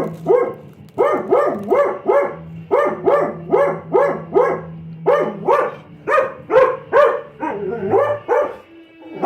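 A small dog barking repeatedly in quick, high-pitched runs, about three barks a second with short pauses between runs.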